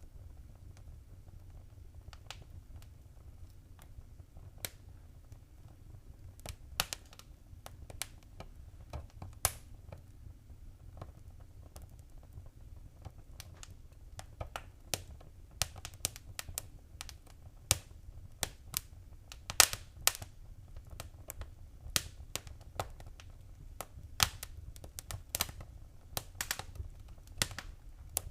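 Wood fire crackling in a fireplace: irregular sharp pops and snaps over a low steady rumble, sparse at first and coming more often from about halfway on.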